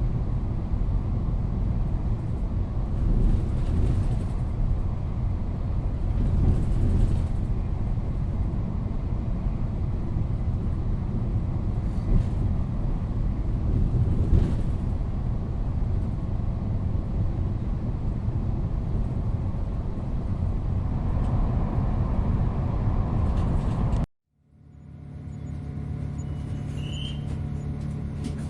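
Ambience inside a moving train: a steady low rumble with a few brief knocks and clatters. About 24 s in it cuts off abruptly, and after a moment of silence a quieter, steady low hum fades in with a faint high beep.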